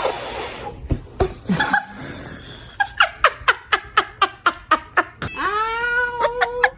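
High-pitched laughter in quick repeated bursts, about four a second for a couple of seconds, then one long held voiced note.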